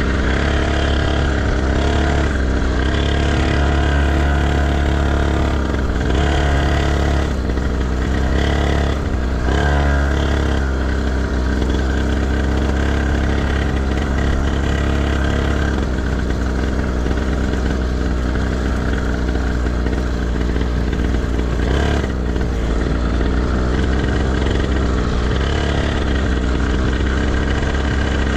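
Motocross bike engine revving, its pitch rising and falling repeatedly over the first ten seconds, then running steadier.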